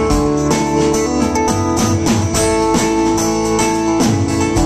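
Live band playing an instrumental passage between sung lines: guitars over a steady beat, with no vocals.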